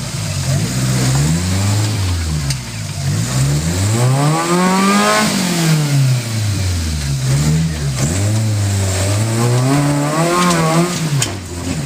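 Suzuki Samurai's four-cylinder engine revving up and down again and again as it crawls over rocks, with the biggest rev about halfway through and another near the end. A couple of short sharp knocks.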